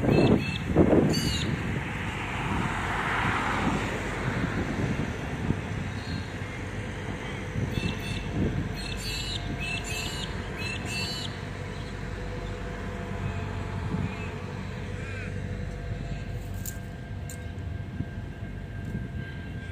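Intermodal freight train's container wagons rolling past at steady speed, a continuous low rumble of wheels on rail, with wind gusting on the microphone near the start.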